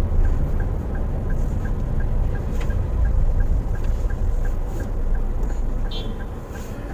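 Low, steady rumble of a car heard from inside the cabin, with the turn-signal indicator clicking evenly about three times a second.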